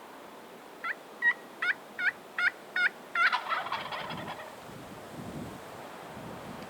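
A wild turkey gobbling: a run of six evenly spaced turkey yelps, then a tom's rapid rattling gobble answering about three seconds in. Wind noise runs underneath.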